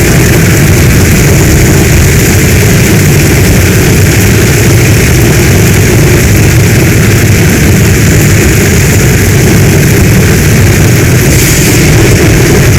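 Heavy storm rain pouring down steadily and loudly, a dense hiss over a low, continuous rumble.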